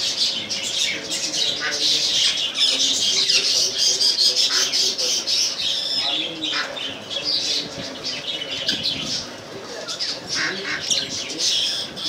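Caged birds squawking and chirping, many short calls overlapping without a break.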